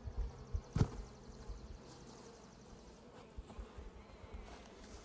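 A colony of honeybees buzzing, a faint steady hum, with a single knock a little under a second in.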